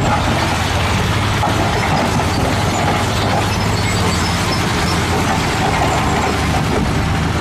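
A steady mechanical running noise, a low hum under a dense rattle, that cuts in suddenly and stops suddenly about seven seconds later.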